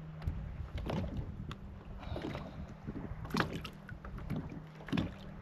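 Water splashes and sharp knocks around a plastic fishing kayak as a hooked speckled trout is brought in, over a low steady hum. The clearest knocks or splashes come about a second in, midway and near the end.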